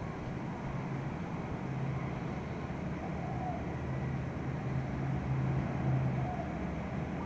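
A vehicle engine running steadily: a low hum over background noise, a little stronger through the middle.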